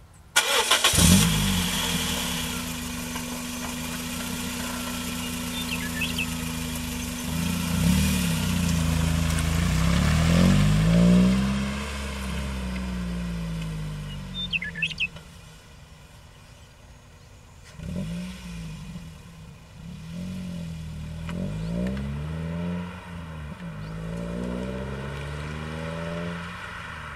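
Toyota Echo's 1NZ-FE four-cylinder engine, breathing through a 4-2-1 header and a Scion xA TRD axle-back muffler, starting about a second in, then idling and being revved up and down several times.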